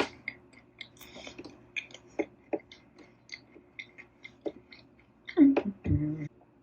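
Close-up chewing of popcorn: a run of light crunchy crackles, a few per second, with a couple of louder mouth sounds near the end.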